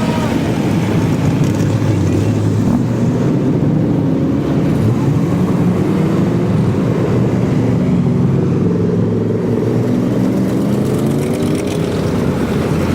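Car engines running as cars drive past at low speed, the engine pitch rising and falling as they go by.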